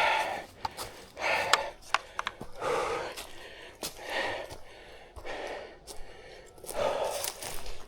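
A person breathing hard, about one heavy breath every second and a half, with a few sharp clicks between breaths.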